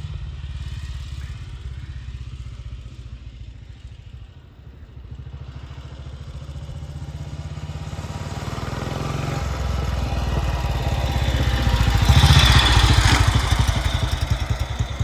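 BSA WM20's single-cylinder side-valve engine running as the motorcycle is ridden. It fades into the distance, then grows louder as the bike comes back and passes close by, loudest about twelve seconds in.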